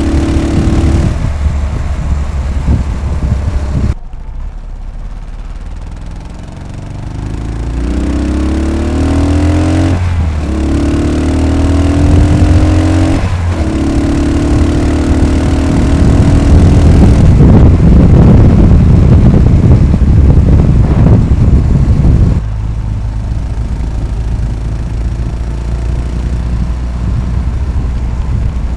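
Yamaha SR500's air-cooled single-cylinder four-stroke engine under way on the road. The throttle is eased about four seconds in. The bike then pulls away again with the pitch rising, broken by two short gaps that sound like gear changes. It runs loudest for a few seconds, then the throttle shuts off suddenly near the end and the engine settles into a lower, steady beat.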